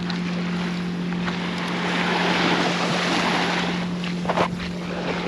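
Surf washing and wind buffeting the microphone, with a steady low hum beneath and a brief sharper sound about four seconds in.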